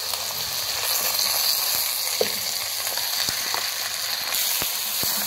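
Yogurt-marinated chicken sizzling in hot oil as it is tipped into a pan of softened sliced onions: a steady frying hiss that grows louder about a second in, with scattered crackles and spatters.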